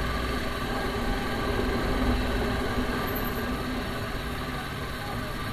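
TVS Apache RR310's single-cylinder engine running steadily, swelling slightly about two seconds in.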